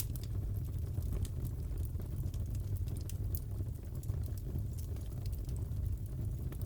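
Crackling wood fire in a fireplace: irregular small pops and snaps over a steady low rumble.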